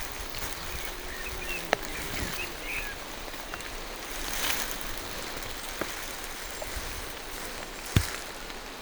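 Steady rain falling through forest trees, with sharp taps of single drops striking close by, the loudest near the end. A few faint bird chirps come through around two seconds in.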